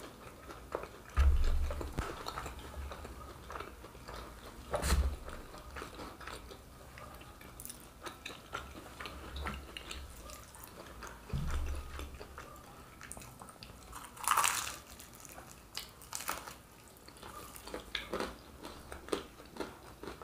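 Close-up chewing and biting of crunchy deep-fried pastéis, with short crackles and a few louder crunches in the second half. A few dull low thumps come in between.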